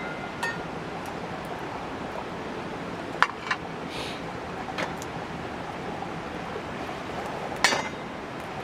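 Metal cookware clinking a few times, sharp and brief, with one louder ringing clink near the end, over a steady rushing background.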